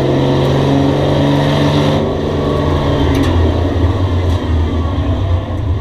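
Race car engine running hard on a short oval track. Its steady note drops about two to three seconds in, as though the car is easing off, and leaves a rougher low rumble.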